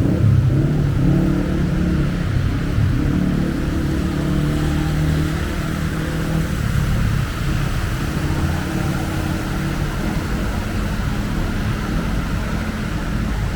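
Street traffic: a motor vehicle's engine running close by, its note strongest in the first half and fading after about seven seconds, over steady traffic noise.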